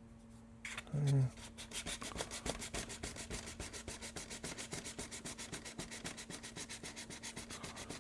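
Sandpaper rubbed quickly back and forth over a filled repair on a plastic RC truck body, in an even rhythm of about five or six strokes a second. A short low voice-like sound comes about a second in.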